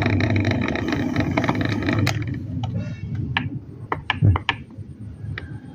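Electric standing fan motor, its blade removed, running weakly with a squeaking grind, which the repairer suspects comes from a worn, dry brass shaft bushing. About two seconds in there is a sharp click, then scattered clicks and knocks from handling the motor.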